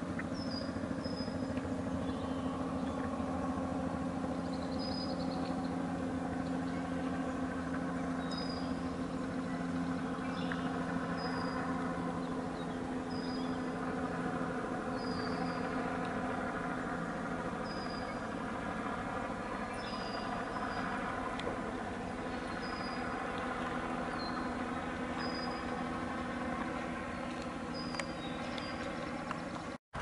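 A bird repeats a short, high, slightly falling chirp about once a second over a steady low mechanical hum.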